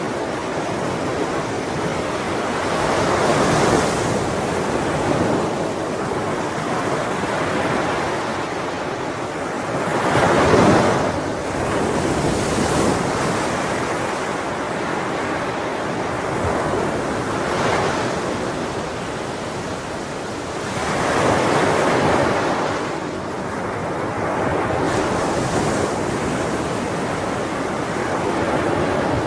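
Ocean waves breaking on a shore, with a continuous wash of surf and a louder swell every few seconds.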